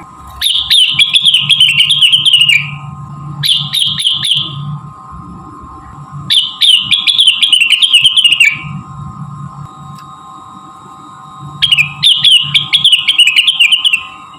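Cucak wilis (rengganis) songbird singing in four loud bursts of fast, chattering trills, each falling slightly in pitch at its end, a lure song meant to set a kept bird singing. A steady hum runs beneath.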